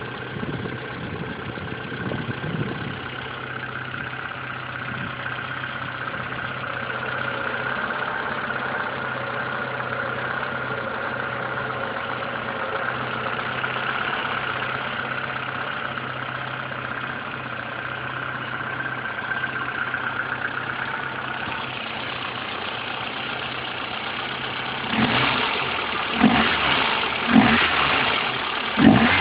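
Peugeot 106 1.1 single-point-injection four-cylinder engine, breathing through an open sport air filter with the airbox removed, idling steadily with plenty of intake noise. Near the end the throttle is blipped four times in quick succession, each a short sharp rev.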